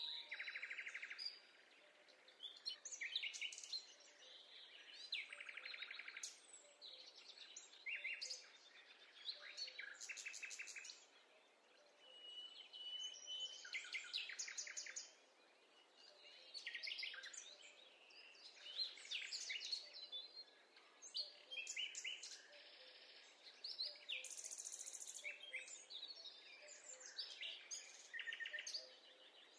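Songbirds singing and calling, overlapping phrases of rapid trills and chirps with short pauses between them.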